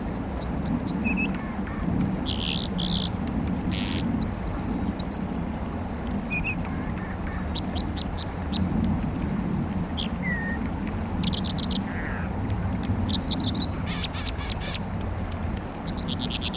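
American dipper singing: a varied string of high chirps, quick trills and short whistled phrases, repeated every second or so over the steady rush of a fast stream.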